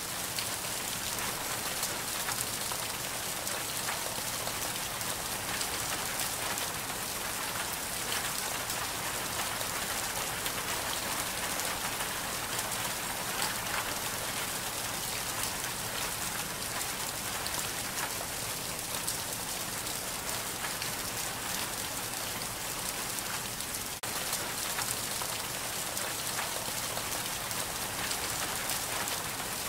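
Steady heavy rain from an ambient rain sound-effect recording: an even hiss with dense, fine pattering of drops that holds the same throughout.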